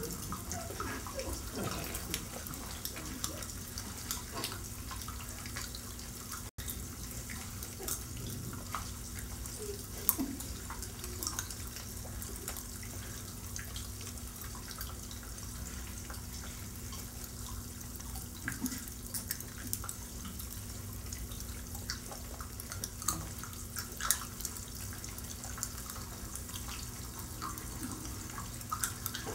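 Pop Rocks candy crackling and popping in many open mouths at once: a dense, continuous fizz of tiny pops and clicks over a steady low hum.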